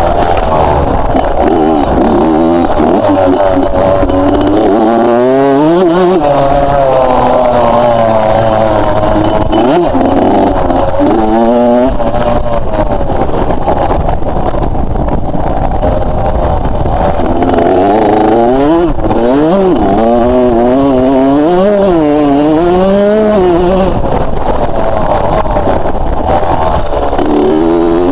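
Two-stroke motocross bike engine revving hard, its pitch climbing and dropping again and again as the throttle opens and closes.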